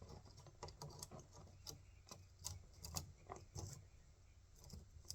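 Faint, irregular clicks and light taps of a chainsaw's bar and chain being handled and lined up on the saw.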